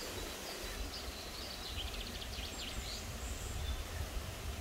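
Songbirds chirping in a quick run of short high notes, over a steady low outdoor rumble.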